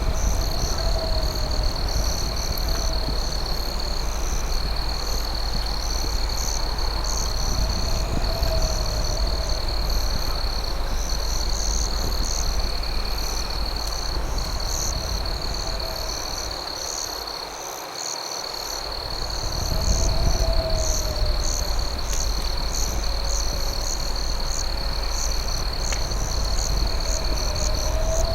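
Night insect chorus: crickets trilling in one steady high tone with faster pulsing chirps above it, and a short wavering call repeating every few seconds lower down. A steady low rumble runs underneath and briefly fades away about two-thirds of the way through.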